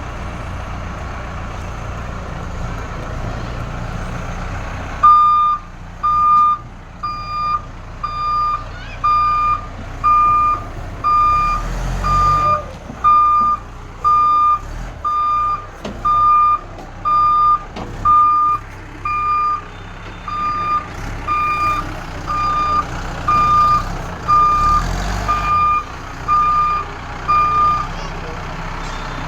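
Heavy machine's diesel engine running, and from about five seconds in a reversing alarm beeping steadily about once a second for some twenty seconds, the backhoe loader backing up.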